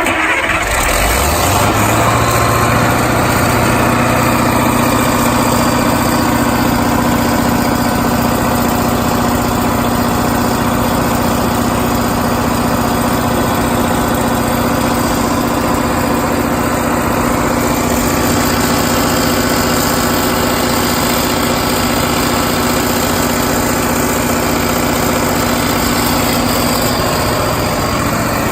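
Detroit Diesel 8.2L V8 diesel engine of a 75 kW generator set, just started, coming up to speed within the first second or two and then running steadily.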